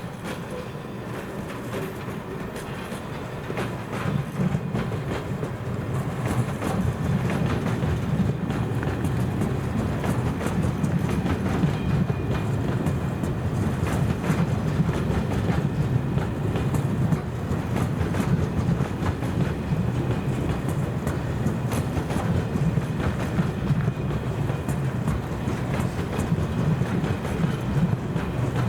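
Train passing, growing louder over the first few seconds and then holding as a steady rumble, with wheels clicking over the rail joints.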